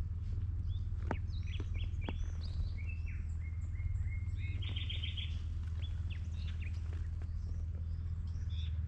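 Several songbirds chirping and whistling, with a quick trill about halfway, over a steady low rumble.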